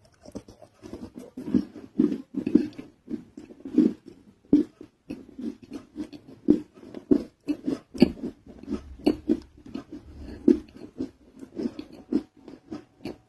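Close-miked chewing and crunching of a non-roasted nakumatt clay roll: a steady, irregular run of crisp bites and crunches.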